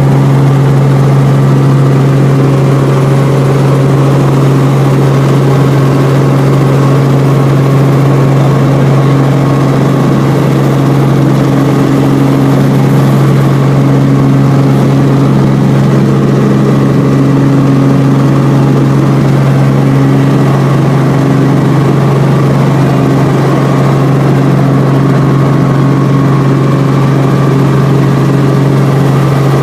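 A helicopter's engine and rotors running with a steady, loud drone.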